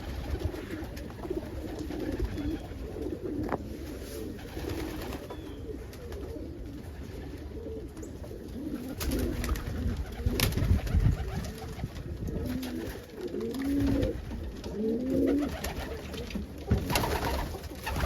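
Domestic homing pigeons cooing, many short overlapping coos with a few sharp clicks among them.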